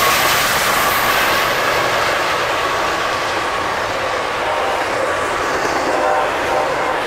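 A train passing close by: a steady, loud noise of wheels rolling on the rails, easing slightly. The last of a horn note fades out in the first second.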